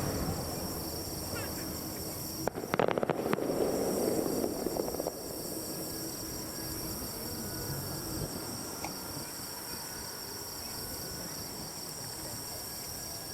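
Steady chorus of night insects trilling, crickets among them. About two and a half seconds in comes a short burst of sharp crackling clicks with a rustling noise that fades out a couple of seconds later.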